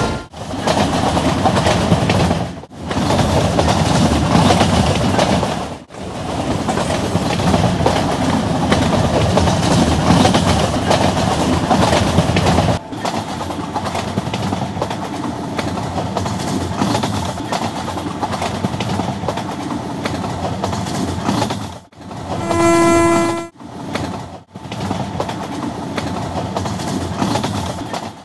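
A train running on the rails with steady, loud rumbling wheel noise, broken by several sudden cuts. Near the end there is one horn blast about a second long, a single steady pitched note.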